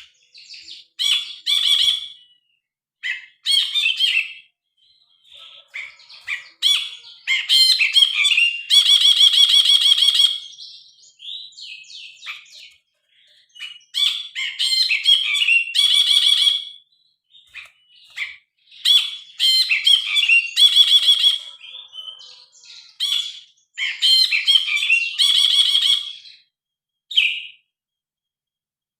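Brinji kelabu (cinereous bulbul) singing loud, varied phrases of whistles and chatter. Every few seconds it breaks into a fast, rattling trill.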